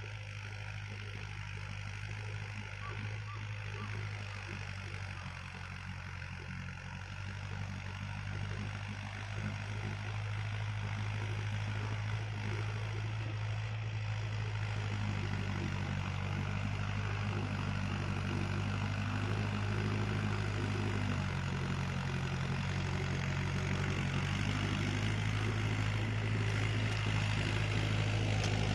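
Tractor engine running steadily under load, pulling a rotavator, and growing gradually louder.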